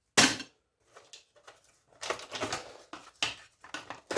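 Knocks, clicks and rattles of metal and plastic parts being handled while electronic equipment is taken apart for scrap, the loudest a sharp clack just after the start.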